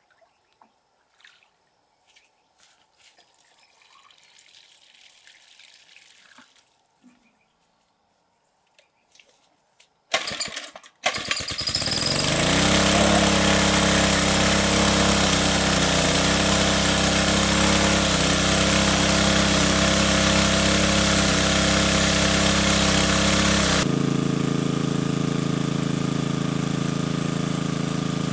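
A small engine starts about a third of the way in, stuttering briefly before catching, then runs loud and steady. Near the end its sound turns duller and a little quieter, as if throttled back to idle.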